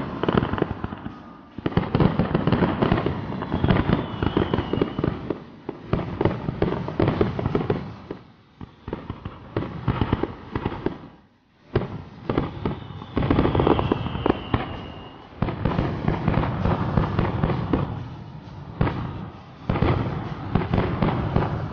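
Fireworks display going off in dense volleys: rapid bangs and crackling from aerial shells and ground fountains, with a brief lull about eleven seconds in. A falling whistle cuts through twice, around four seconds in and again around fourteen.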